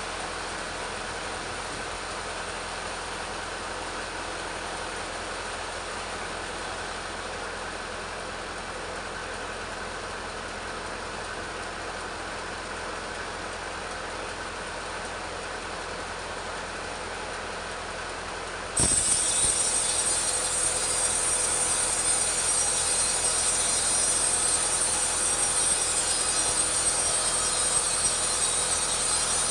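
Petrol chainsaw running steadily as it rips a teak log lengthwise. About two-thirds of the way through, the sound abruptly becomes louder and brighter.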